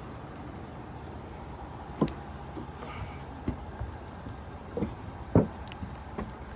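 Clunks and knocks from a car being backed down a car-carrier truck's ramps, over a steady low hum; the loudest knock comes about five seconds in.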